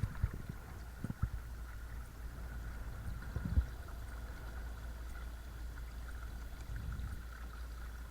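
Watersnake T24 12-volt electric trolling motor driving a kayak, running with a steady high whine over the low rush and gurgle of water along the hull. A few short knocks come in the first four seconds, the loudest about three and a half seconds in.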